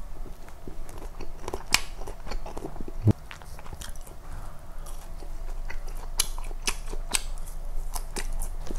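Close mouth sounds of a man chewing McDonald's chicken nuggets and then french fries, with many small sharp clicks and crunches scattered irregularly throughout.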